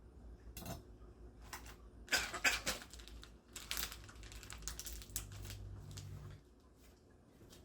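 A run of sharp clicks and clatters, loudest about two seconds in, with a low hum that starts near the middle and cuts off about a second before the end.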